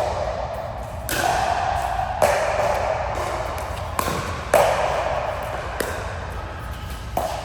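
A rally of sharp hits, about one a second, some pairs closer together, in a sports match in a large indoor hall.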